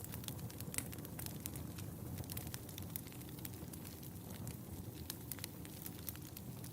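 Wood fire burning in a fireplace: a steady low rumble of the flames with irregular sharp crackles and pops, one louder pop about a second in.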